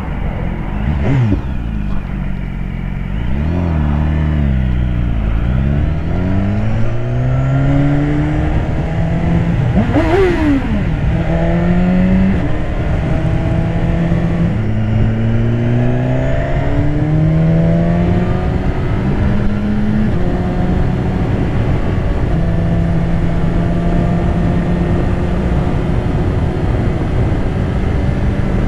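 BMW S1000RR's inline-four engine under way: the revs climb and drop back in steps as it shifts up through the gears, then hold steady at cruise for the last several seconds, with wind rushing over the microphone.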